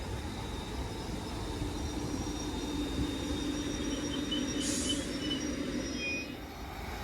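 Electric passenger train running on the rails: a steady low rumble with a steady hum from about a second and a half in to about six seconds, faint thin high squeal-like tones, and a short hiss near five seconds.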